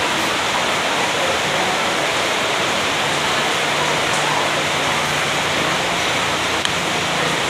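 A steady, loud rushing hiss that stays even throughout, with one small click near the end.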